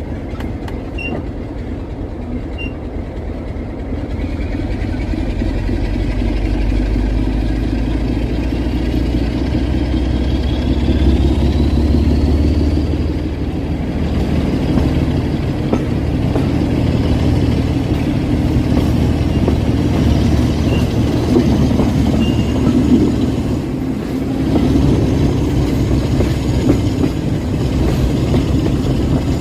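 Heritage diesel locomotive working a train: a heavy, steady engine rumble that grows louder about four seconds in, with a high whine rising in pitch over the following several seconds.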